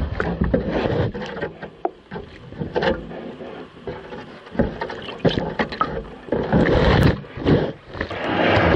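Waves sloshing and slapping against a kayak's hull and breaking around nearby rocks, in irregular surges with a louder rush of water about seven seconds in.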